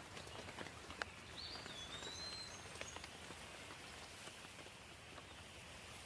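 Light rain falling steadily, with scattered drops ticking close by, and a bird chirping briefly about a second and a half in.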